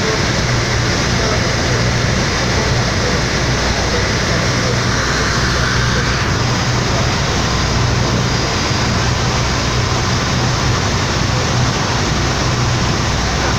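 Steady, unbroken drone of the Express Bahari 8B fast ferry's engines, a low hum under a constant rushing noise.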